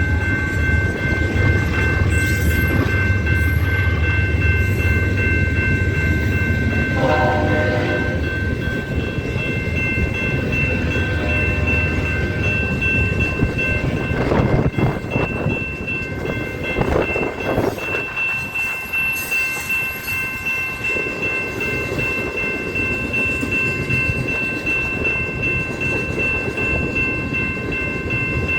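Freight train passing close by: a diesel-electric locomotive's deep engine rumble for the first several seconds, with a short pitched sound about seven seconds in, then loaded coal cars rolling past with uneven rail clatter. Thin, steady high-pitched tones ring underneath throughout.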